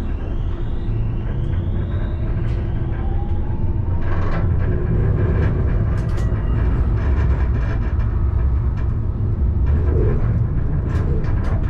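Alstom Citadis tram running, heard from the driver's cab: a rising whine from the drive in the first few seconds over a heavy rumble of wheels on rails that grows slightly louder. Scattered sharp clicks and knocks from the track come through, a cluster of them near the end.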